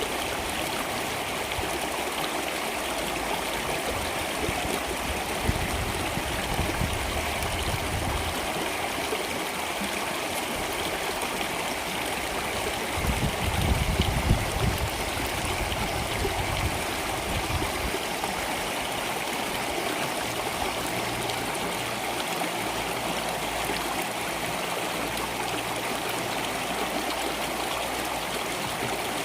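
Water flowing in a stream, a steady rushing and gurgling, with a brief deeper rumble about halfway through.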